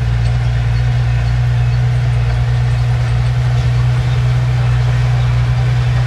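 Diesel engine of a bulldozer or dump truck running at a steady speed: a constant low hum with no change in pitch.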